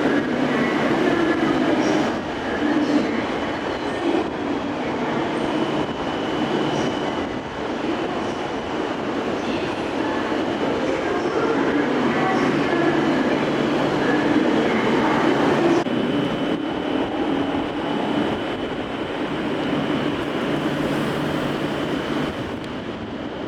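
Shinkansen train at the station, a steady, continuous rail noise with a low hum and a thin steady high tone running under it.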